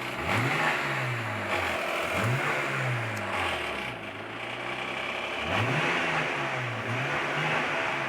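Mazda MX-3's 1.8-litre V6 blipped from idle several times, the pitch rising quickly and falling back to idle each time. The owner says the ticking/knocking it makes at idle and below 2000 rpm switches off when the revs go above 2000 rpm.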